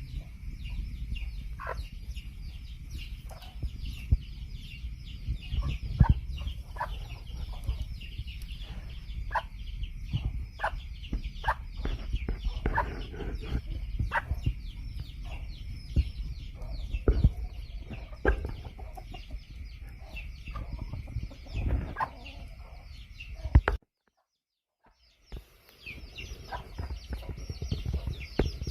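Chickens clucking and calling in a farm yard, with many quick high chirps and scattered sharp knocks. The sound cuts out completely for about a second and a half near the end.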